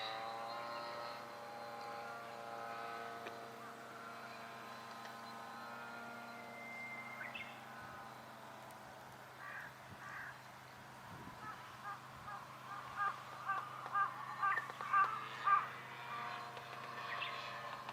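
A crow cawing over and over, about two calls a second, loudest in the second half. Before the cawing, a steady drone with a slowly shifting pitch fades away over the first few seconds: a model aircraft's motor passing at a distance.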